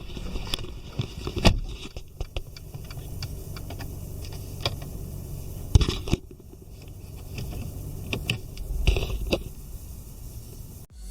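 Mercedes-Benz A180's M270 four-cylinder turbo petrol engine idling with a steady low hum, with scattered clicks and light rattles over it.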